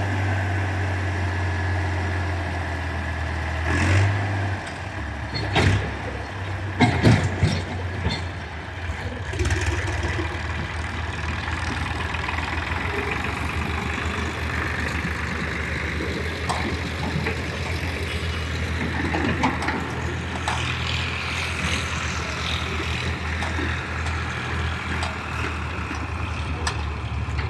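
Eicher diesel tractor engine running steadily while its hydraulic tipping trailer unloads soil. The engine note shifts about four seconds in, and several loud knocks come between about four and ten seconds in.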